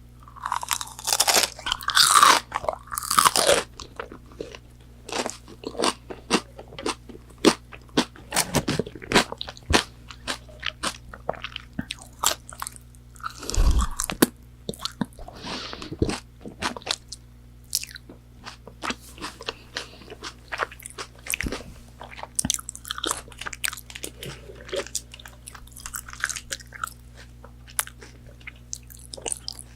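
Close-miked crunchy bites into crispy fried chicken nuggets, followed by steady crackling chewing. The loudest crunches come in the first few seconds and again about midway.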